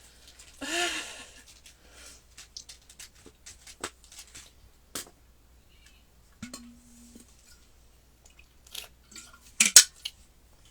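Foil wrapper of a Pokémon booster pack crinkling and tearing and cards being handled: a run of small crackles and clicks, with a louder rustle near the end. A short vocal sound comes about a second in.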